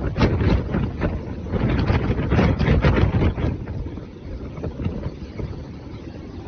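Gale-force wind buffeting the microphone in rough gusts with a heavy low rumble. It is strongest for the first three seconds or so, then eases somewhat.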